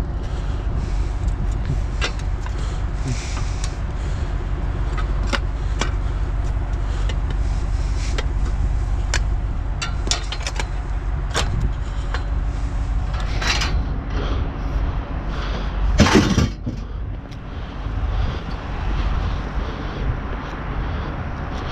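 A steady low engine-like hum with scattered clicks and knocks, as of items being handled, and one louder clatter about sixteen seconds in.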